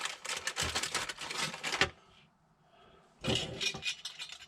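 A metal hose clip being handled and fitted: rustling, scraping and small metallic clicks, with a pause of about a second midway.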